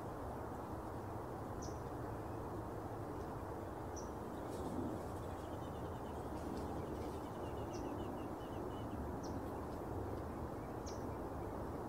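Steady low background noise with a small bird's short, high chirps every second or two. A faint, rapid twittering trill runs from about four to nine seconds in.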